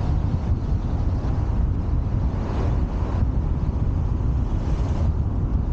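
Wind buffeting the microphone over a steady rumble of city street traffic, with a swell of passing-vehicle noise about two and a half to three seconds in.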